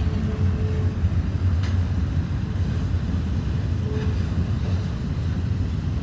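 Passing train with a steady low rumble.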